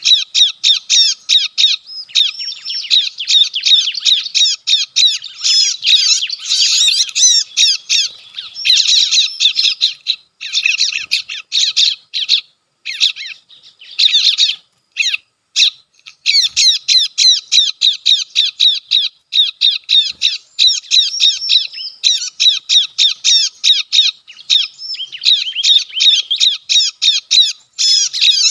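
Recorded ciblek (bar-winged prinia) calls played through a speaker as a trapping lure: dense runs of rapid, high, chattering notes, broken by a few short pauses about halfway through.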